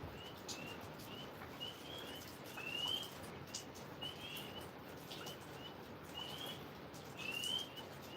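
Tree frogs calling, short rising chirps repeating a few times a second, over the steady hiss of rain with scattered drips.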